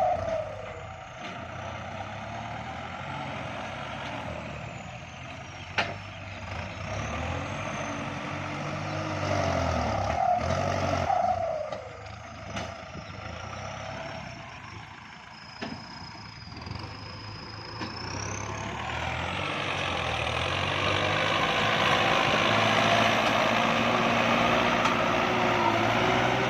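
Kubota farm tractor diesel engine running under working load, its pitch rising and falling as the load changes. It grows louder and rougher about two-thirds of the way through.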